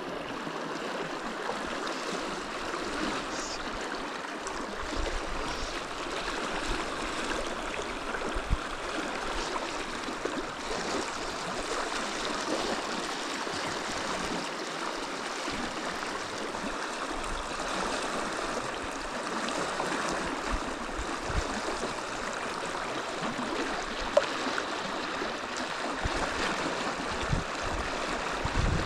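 Steady rush of a river's flowing water, with a few faint knocks along the way.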